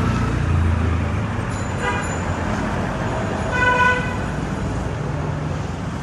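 Car horn sounding twice: a brief toot about two seconds in, then a louder, half-second honk about three and a half seconds in, over a steady low engine and traffic rumble.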